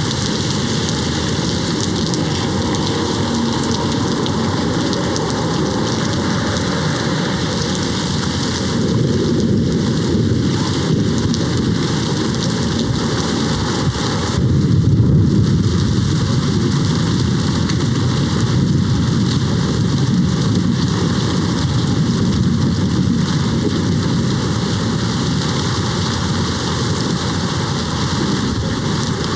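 Steady rain hitting a window, with a low rumble of distant thunder swelling about halfway through and rolling on for several seconds.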